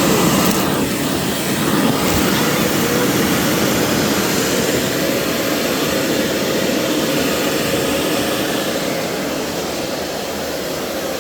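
Corded vacuum cleaner running steadily as it is pushed over carpet, sucking up hair; it eases off a little near the end.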